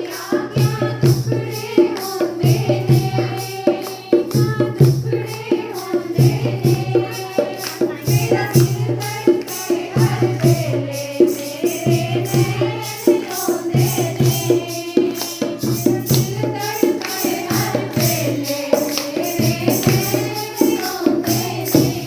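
Devotional song to Krishna: voices singing a wavering melody over fast, steady percussion and a repeating low beat.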